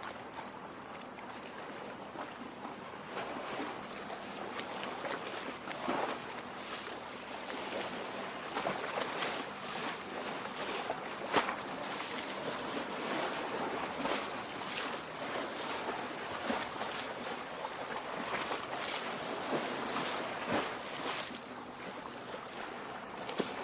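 Lake water lapping at the shore: a steady wash broken by many small, irregular splashes.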